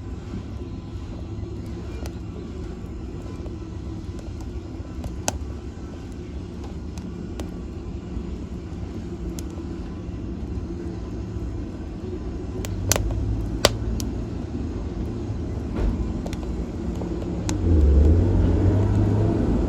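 Wood fire burning in a fireplace: a steady low roar with scattered sharp crackles and pops. The roar swells near the end.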